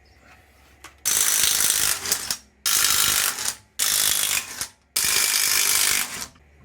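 Ratchet wrench clicking fast in four runs of about a second each, with short pauses between, as bolts are worked loose or run down.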